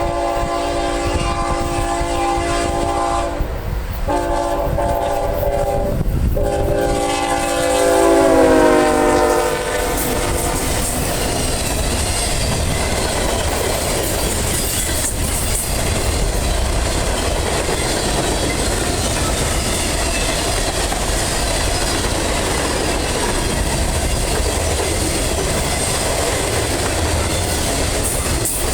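A Norfolk Southern ET44AC diesel locomotive sounds its multi-note horn in three blasts as it approaches. The last blast drops in pitch as the locomotive goes by, about eight to nine seconds in. Then comes the steady rolling rumble and clatter of the train's cars passing on the rails.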